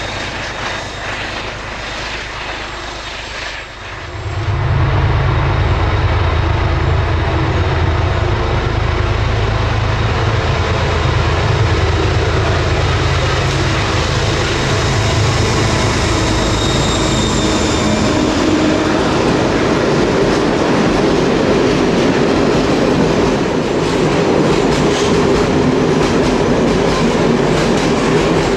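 Freight train passing: a heavy diesel locomotive, more distant at first, then loud and close from about four and a half seconds in with a deep engine drone. From a little past halfway the drone gives way to the rolling clatter of a long rake of hopper wagons crossing a steel viaduct.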